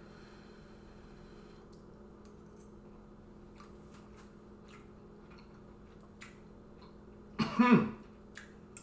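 A person's short, loud cough about seven and a half seconds in, after tasting spicy curry, over a quiet room with a steady low hum and a few faint clicks.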